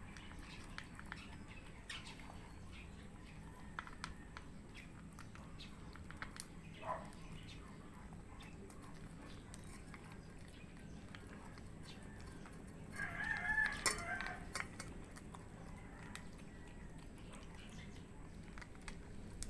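Faint scattered clicks and crunches of cats eating dry cat food mixed with wet food. About thirteen seconds in, a rooster crows once.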